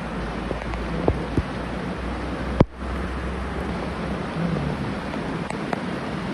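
Steady rushing of heavy rain and floodwater, with wind rumbling on the microphone. A sharp click about two and a half seconds in, with the sound dipping briefly just after it.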